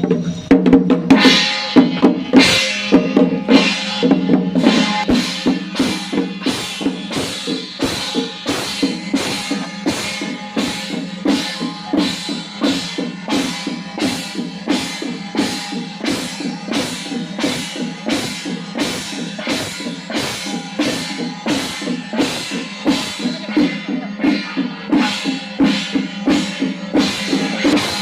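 Ritual percussion beating a steady rhythm of about one and a half strokes a second, each stroke bright and ringing, over a steady low held tone. The strokes are louder and less even for the first few seconds.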